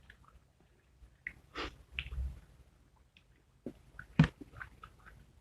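Eating sounds: crispy fried chicken being chewed and crunched, with scattered small clicks. One sharp knock about four seconds in is the loudest sound.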